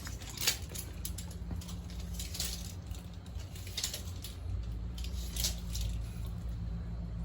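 Small metallic clicks and rattles of a tape measure being pulled out and handled, over a steady low hum.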